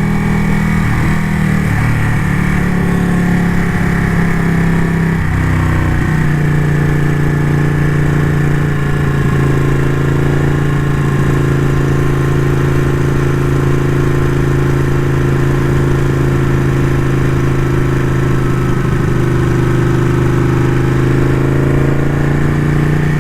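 Ducati motorcycle engine running, its pitch shifting a few times in the first six seconds, then holding steady.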